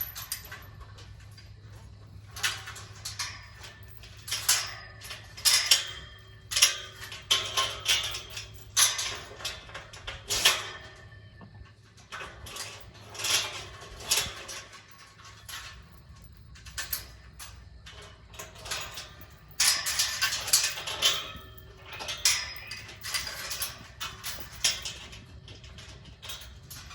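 Metal farm gate being unlatched and opened, its chain and latch rattling and clanking in irregular bursts, over a faint steady low hum.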